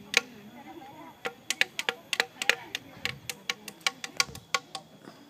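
Improvised percussion: an irregular run of sharp taps and clicks, struck by hand on found objects, that thins out near the end.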